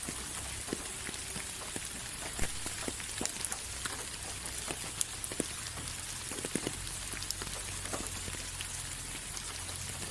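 Steady rain falling, a constant hiss with many separate drops ticking and pattering on a surface.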